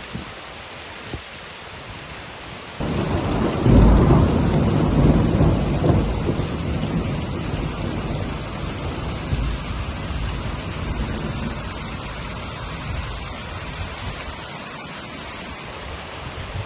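Steady heavy rain, with a loud rumble of thunder breaking in about three seconds in, peaking a second later and rolling away slowly over the next ten seconds.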